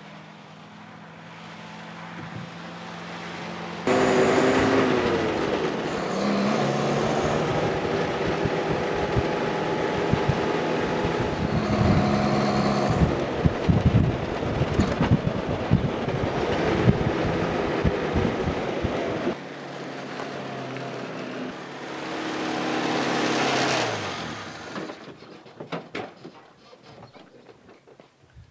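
Austin 10 staff car's four-cylinder side-valve engine running: first a drive-by that grows louder, then heard from on board while driving, with wind and road noise and the engine pitch rising and falling. Near the end the engine fades away and a few light knocks follow.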